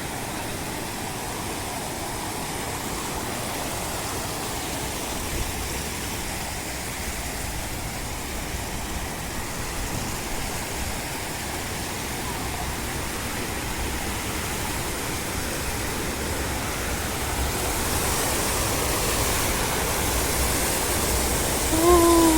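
Steady rushing noise that grows a little louder and brighter toward the end, with a deep, unsteady rumble underneath. A brief voice cuts in at the very end.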